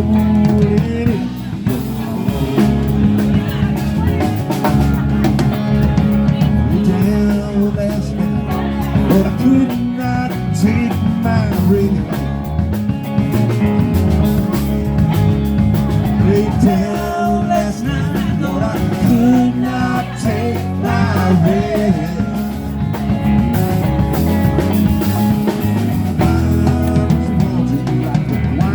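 Live band playing a song with guitar, bass and drums, and a singer's voice over them.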